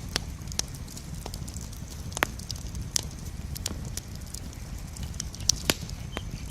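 Wood campfire burning: a steady low rumble of flame with irregular sharp crackles and pops, a few louder snaps among them.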